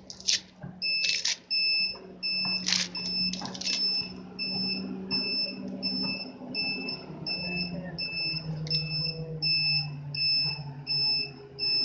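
An electronic alarm beeping rapidly and steadily, about three short high-pitched beeps a second. A few sharp clattering noises sound in the first few seconds.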